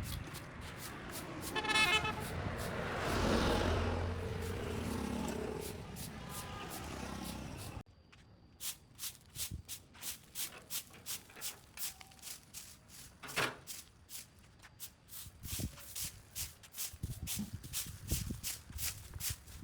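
A vehicle passes, with a short horn honk about two seconds in. After a sudden cut near the middle, a steady run of short noisy strokes follows, about three a second.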